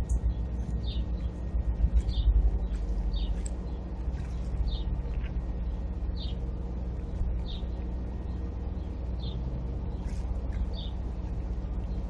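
A small songbird repeating a short, high chirp about once a second, over a steady low rumble.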